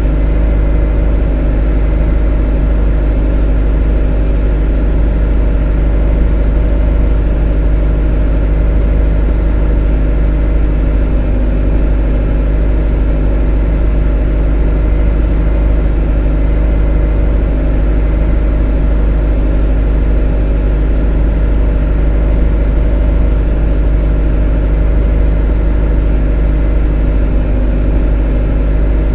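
A motor running at a steady, unchanging speed: a loud, even low hum with several constant tones above it.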